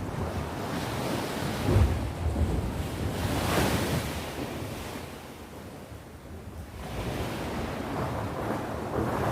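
Sea waves washing onto the shore. A wave surges up with a rising hiss about three and a half seconds in, ebbs, and builds again near the end, over low rumbling wind buffeting the microphone.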